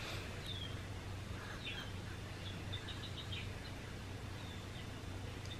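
Faint bird chirps: a few short downward-gliding calls and a quick run of about four notes, over a steady low hum.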